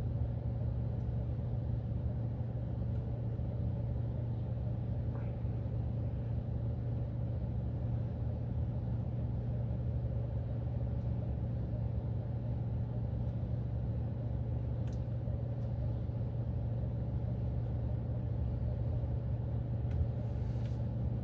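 Steady low rumble inside a car's cabin, unchanging throughout.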